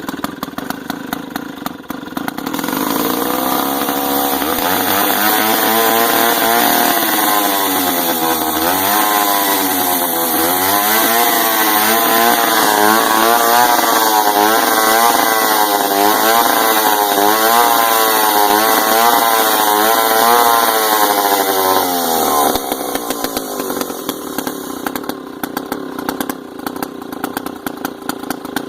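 An old Pioneer two-stroke chainsaw, fresh out of fifteen years of storage, is running after firing up. It is held at high revs with the engine speed wavering up and down, then drops back to an uneven idle about 22 seconds in.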